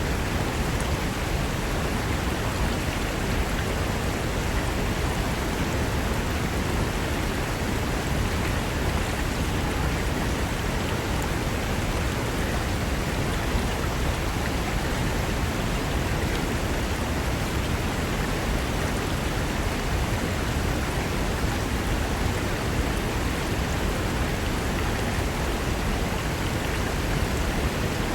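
Fast mountain river rushing over rocks: a steady, dense roar of water without change.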